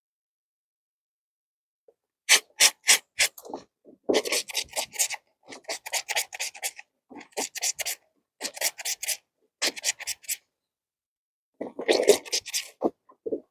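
Wet, soapy clothes being scrubbed by hand: quick rasping strokes, about three or four a second, in short runs with brief pauses, starting about two seconds in.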